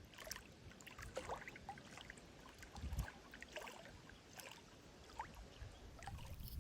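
Faint water lapping and trickling at the edge of a pond, with small scattered splashy ticks and a soft low thump about three seconds in.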